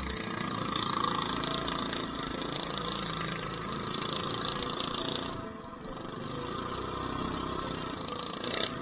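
Mini bike's small engine running as it rides along a dirt trail, easing off briefly about halfway through, with a short sharp knock near the end.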